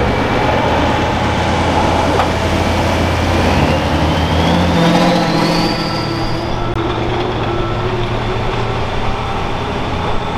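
Turbocharged diesel engine of a super farm pulling tractor running hard under load. A high turbo whine climbs steadily in pitch, then drops away about six and a half seconds in, as the engine comes off full power.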